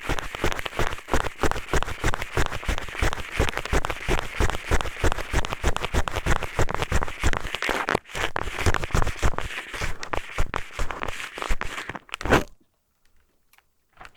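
Eyeglasses scraping and rubbing in a binaural microphone's ear for ear-cleaning ASMR: rapid, dense scratchy strokes close to the ear. They stop suddenly about twelve and a half seconds in, leaving near silence with one small tap near the end.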